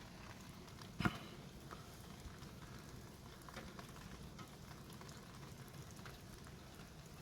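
Steady faint hiss of heavy rain falling, with scattered drop ticks and one sharper tap about a second in.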